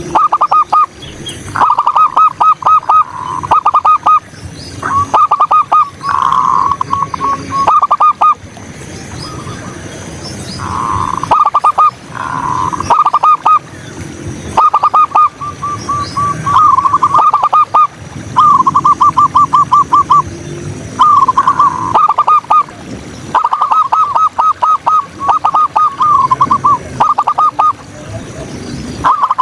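Zebra doves (perkutut) cooing: runs of quick staccato coos, each lasting a second or two with short gaps between them, repeating over and over. Fainter high chirps sound in the background.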